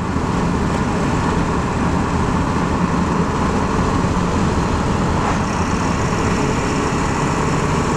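2002 Ford F-350's 7.3 L Power Stroke turbo-diesel V8 running under throttle, heard from inside the cab along with road noise; a faint high whine joins about five seconds in. The owner suspects a failing injector behind a shake under load.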